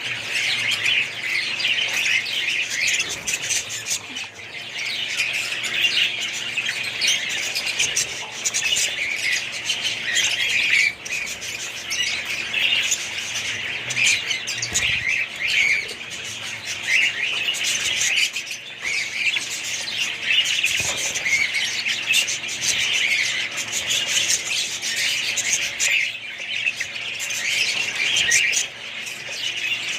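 Many small pet birds chirping and squawking at once, a dense unbroken chatter of short high calls.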